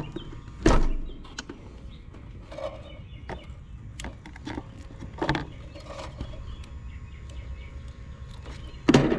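A few sharp clicks and knocks of wire connectors and parts being handled while a fan motor's leads are fitted to a run capacitor's terminals. The loudest knocks come about a second in, midway and near the end.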